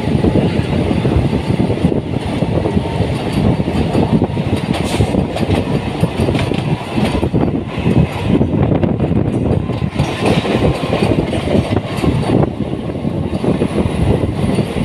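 Train running at speed: a steady rumble and rattle of carriages on the track, heard from aboard a moving local train.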